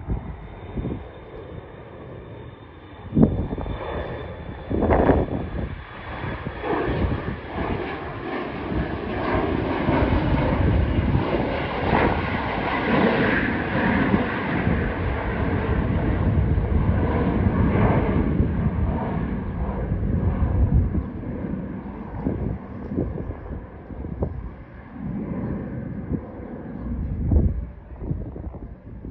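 Airplane taking off and passing by: engine noise builds to a peak about halfway through, then fades away. Gusts of wind buffet the microphone throughout.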